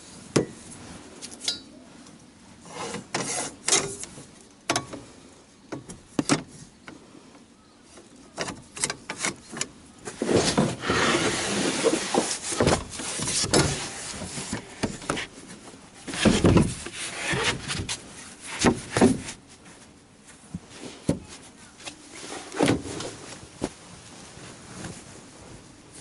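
Gear being handled: irregular knocks, clicks and rubbing, with a longer stretch of rustling about ten seconds in and a heavier thump a few seconds later.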